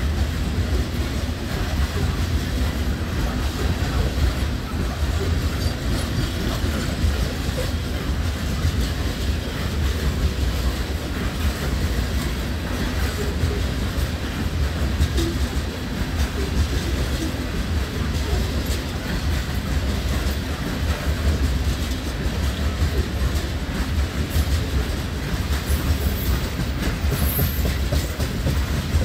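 Cars of an empty coal train rolling past close by: a steady rumble of wheels on the rails, thick with rattling and clatter that never lets up.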